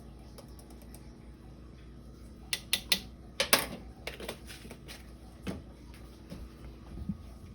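Scattered sharp clicks and light clinks from measuring spoons and seasoning containers being handled while spice is measured out. The clicks are bunched from about two and a half to four seconds in, with a couple more later.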